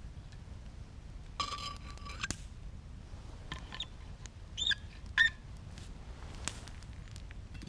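Wood campfire crackling with scattered sharp pops, and a few short high squeaks and whistles in the middle.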